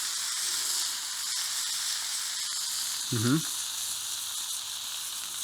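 Bacon sizzling on a hot fire-pit griddle ring over a wood fire: a steady high hiss with small scattered pops. A brief voice cuts in about three seconds in.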